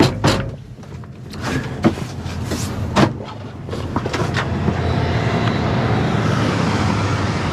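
A few sharp clicks and knocks over a low hum, then from about halfway a pickup truck's engine and road noise build up and hold steady as the truck gets moving.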